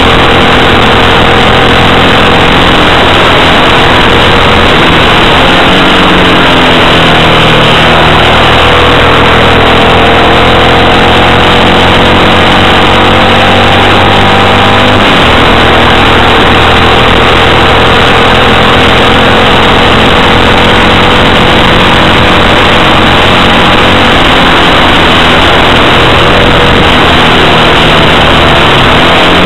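Yamaha XT motorcycle engine running under way: its pitch falls and rises with the throttle, climbs steadily, then drops abruptly about 15 seconds in, as at an upshift. Heavy wind noise on the helmet or bike microphone runs under it all.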